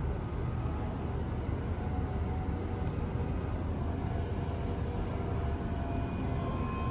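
Steady low rumble of a cruise ship under way, with a few faint steady tones above it.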